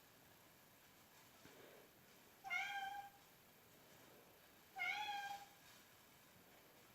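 A cat meowing twice, two short calls about two seconds apart.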